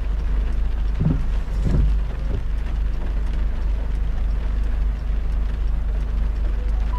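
Car driving in heavy rain: a steady low road rumble under a hiss of rain and light raindrop ticks. A few short thumps come about one to two and a half seconds in.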